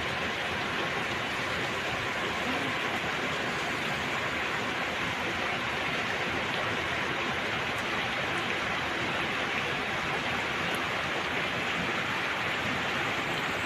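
Floodwater rushing: a steady, even noise of flowing water with no change throughout.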